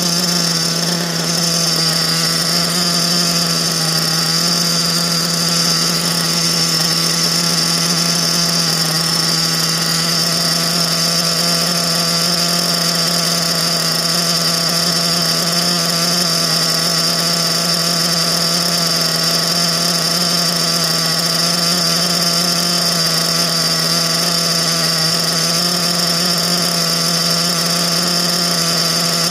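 Nova T6R two-stroke nitro glow engine in an RC truggy running steadily at a fixed, fairly high speed during its first-tank break-in run, a constant buzzing note with no change in pitch.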